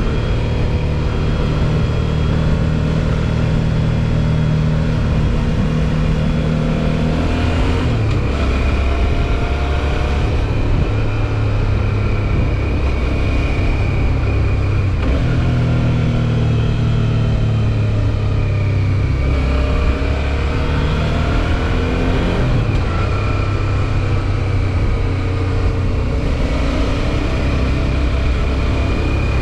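Suzuki V-Strom 650 XT's 645 cc V-twin engine running steadily under way. Its note drops and climbs several times as the revs change.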